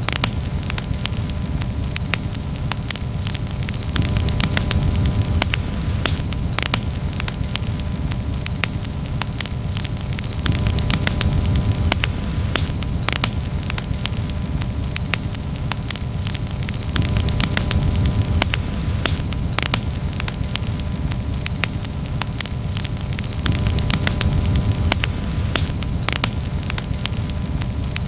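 Campfire burning and crackling, with frequent irregular sharp pops and snaps over a steady low rumble that swells and eases every few seconds.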